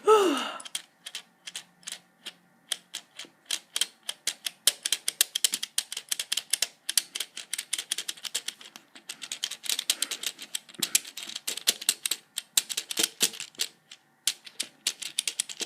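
A rapid, irregular run of sharp clicks and taps, with short breaks about three, nine and fourteen seconds in.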